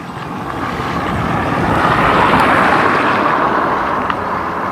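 Rushing noise of a passing vehicle, swelling over about two seconds and then easing off a little.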